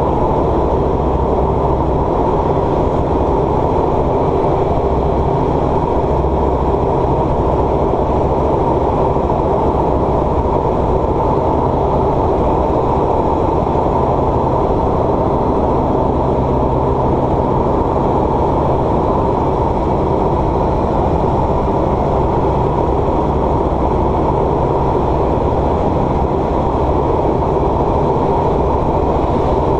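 Steady drone of a light aircraft's engine and propeller in flight, heard inside the cockpit.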